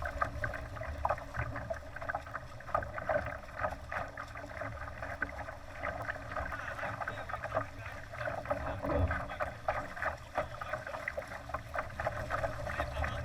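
Water splashing and slapping against a Laser sailing dinghy's hull as it moves, an irregular crackling wash with a low rumble of wind underneath.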